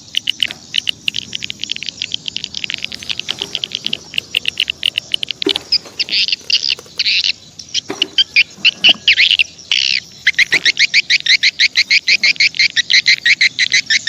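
Birds chirping loudly and without pause in fast runs of short, high chirps, settling into an even rattle of about seven or eight chirps a second near the end. A few soft knocks sound underneath.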